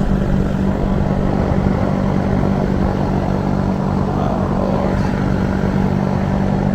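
Electric fan running, a loud steady hum and rush of air close to the microphone.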